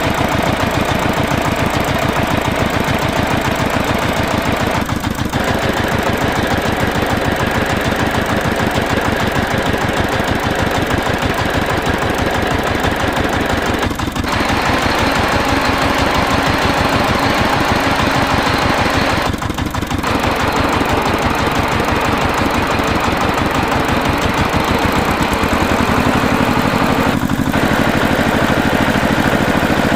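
A tractor engine runs with a steady, rapid knocking chug. The sound dips briefly four times, and its low end changes a few seconds before the end.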